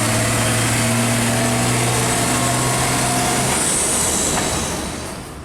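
Isuzu Giga heavy truck driving past close by, with a loud, steady engine note and road noise. The sound dies away near the end as the truck moves off.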